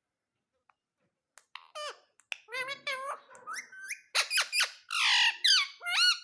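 Ringneck parrot calling: a string of high, squeaky calls that swoop up and down in pitch, starting about a second and a half in, with a harsher, rasping squawk about five seconds in.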